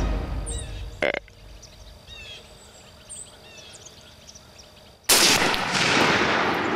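Background music fades out, leaving faint small-bird chirps, with a brief sharp click about a second in. About five seconds in, a single loud gunshot goes off and rolls away for over a second.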